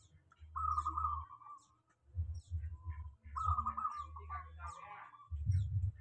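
Birds calling: many brief high chirps, and two longer warbling calls, one about half a second in and one from about three seconds in, over an on-and-off low rumble.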